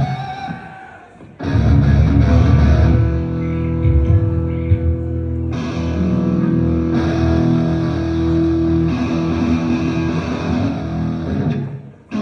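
A rock band playing live, led by guitars with bass underneath. The music falls away about a second in, crashes back in suddenly, and drops out again briefly near the end.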